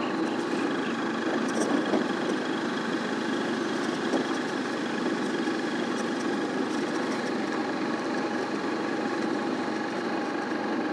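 A vehicle engine running steadily, with an even hum and no change in pace.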